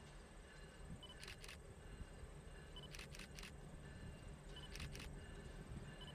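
Faint outdoor background with a short sharp double click repeating about every one and a half to two seconds.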